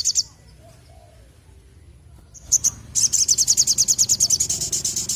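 Sogon (sogok ontong) sunbird singing high, fast trills of rapid repeated notes: a short trill ends just after the start, a brief pause, a couple of single notes, then a long trill of about ten notes a second from about three seconds in.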